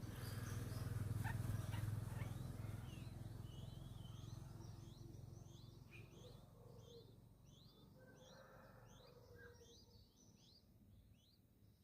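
Small birds chirping: a quick run of short, high chirps, several a second, starting about three seconds in. Under them a low rumble, the loudest sound at first, fades away over the first half.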